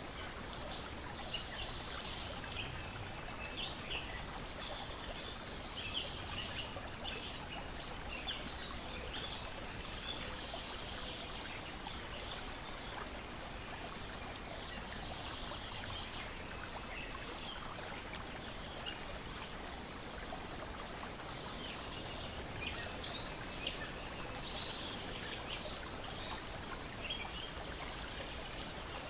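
Lakeside nature ambience: steady lapping and trickling of water, with birds chirping and singing throughout.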